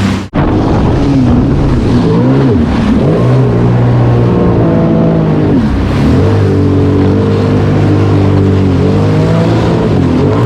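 Sea-Doo personal watercraft engine running under way, its pitch rising and falling with the throttle for a few seconds, then holding mostly steady with small throttle changes. A momentary dropout just after the start.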